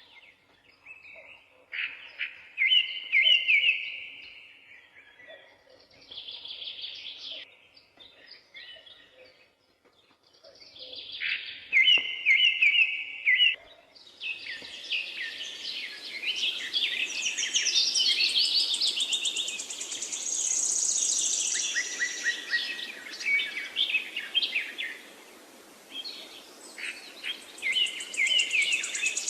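Wild songbirds singing, several birds trading repeated phrases. About halfway through, a steady background hiss comes in beneath denser, overlapping song.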